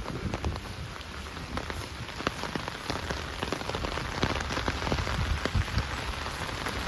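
Steady rain falling, with many individual drops ticking sharply close to the microphone.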